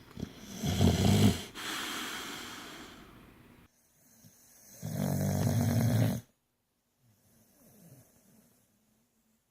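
Boxer dog snoring in its sleep: two loud snores about four seconds apart, the first trailing off into a long airy breath, then a much fainter snore near the end.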